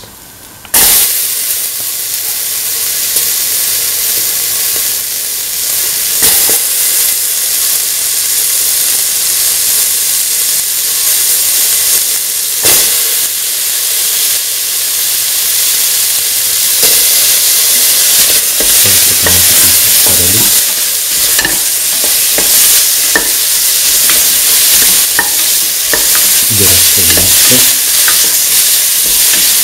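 Chopped onion, shallots, ginger and green chillies sizzling in hot oil in a stainless steel pot, the sizzle starting suddenly about a second in. A couple of sharp knocks come as tomato pieces go in, and later a utensil scrapes the pot as the mixture is stirred.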